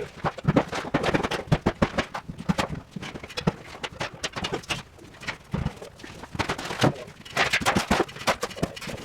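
Irregular run of sharp knocks and clatters from demolition work on a prefab cold-storage room, thickest in the first two seconds and again near the end.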